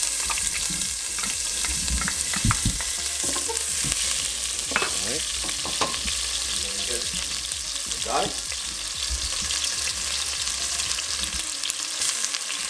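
Onion sizzling as it fries in hot vegetable oil in a pan, a dense steady crackling hiss, stirred with a utensil that scrapes and knocks against the pan now and then.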